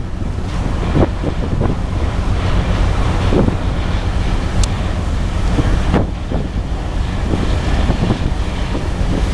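Wind buffeting the microphone over the steady low rumble of a passenger ship under way, with gusts coming and going.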